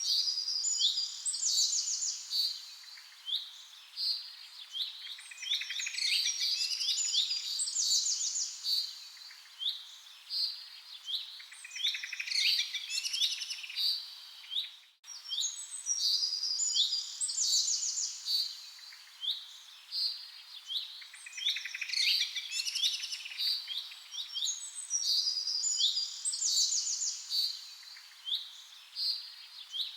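Several birds chirping and singing, with many short high calls and trills overlapping. About halfway through the sound briefly drops out and the same passage of birdsong repeats, as a looped recording does.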